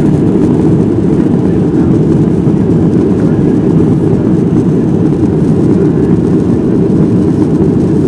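Steady, loud roar of a Boeing 737-700's CFM56 jet engines and rushing air, heard from inside the passenger cabin, deep and even with no change in pitch.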